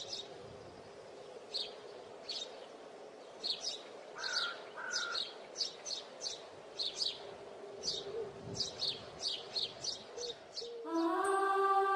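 Small birds chirping: a long series of short, sharp chirps, irregular and at times several a second, over a faint steady hum. Music starts near the end.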